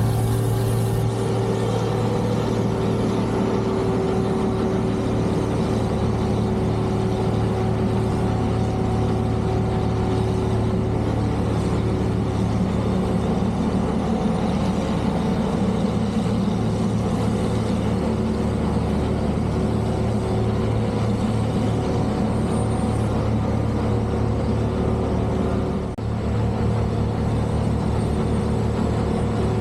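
Heavy snow-removal vehicle engine running steadily with a low hum. It dips briefly near the end, then carries on with a pulsing low rumble.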